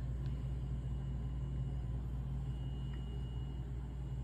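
Steady low hum of a motor or electrical appliance, even throughout, with a faint thin high tone joining it about halfway through.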